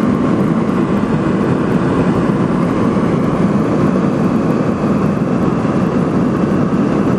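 Steady engine and airflow noise inside a passenger airliner's cabin in flight.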